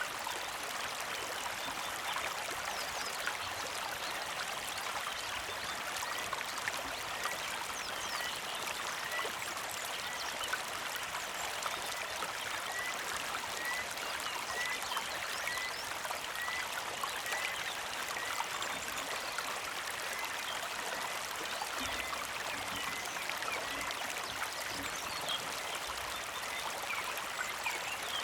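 A small mountain creek flowing and trickling steadily. Over it, a bird repeats a short rising chirp about once a second through the middle of the stretch.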